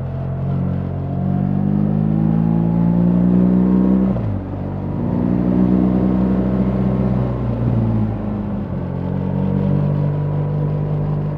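BMW R 1300 GS's 1,300 cc boxer twin pulling hard under acceleration: the engine note climbs, drops sharply about four seconds in as it shifts up, climbs again and drops with a second upshift near eight seconds, then runs on steadily.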